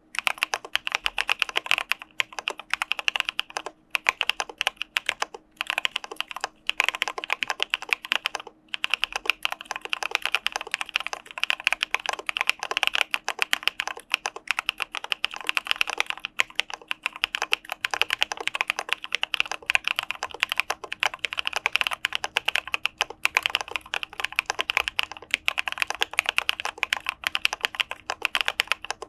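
Fast typing on an Arisu Alice-layout mechanical keyboard with CPSD linear switches: a rapid, continuous clatter of keystrokes, broken by a few short pauses in the first nine seconds.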